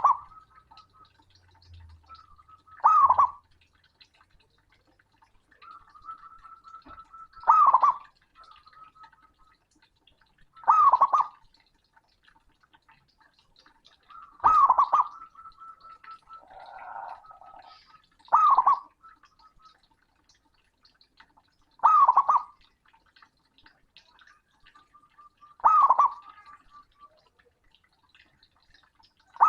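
Male zebra dove (perkutut) cooing loudly, a short burbling phrase repeated about every three and a half to four seconds, with a faint steady trill between the phrases.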